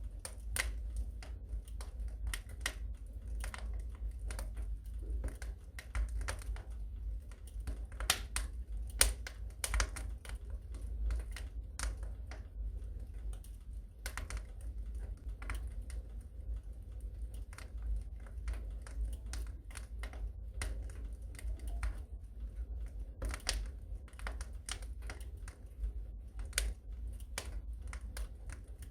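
Wood fire in a fireplace crackling, with irregular sharp pops over a steady low rumble of the flames; the loudest pops come about eight and nine seconds in.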